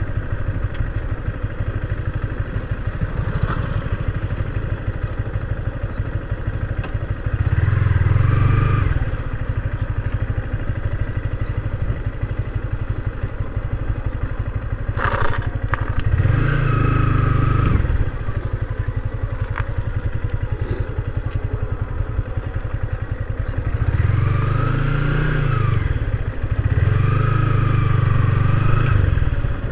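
Motorcycle engine running as the bike is ridden slowly along the road, swelling louder four times as the throttle is opened, with the pitch rising and falling each time. A sharp knock sounds about halfway through.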